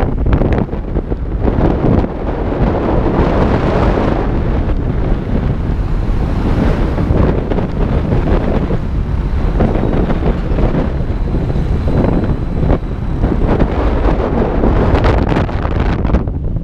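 Heavy wind buffeting the microphone of a camera riding on a moving motorbike, with the motorbike running underneath.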